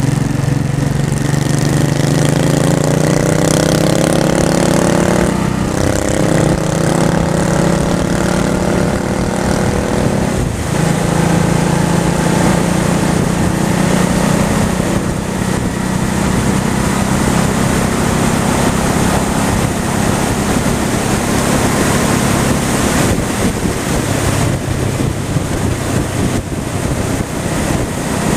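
Honda Shadow V-twin motorcycle engine accelerating, its note rising in pitch over the first ten seconds with two brief dips as it shifts up, about five and ten seconds in, then running steady at cruising speed. Wind rushing over the microphone runs beneath it.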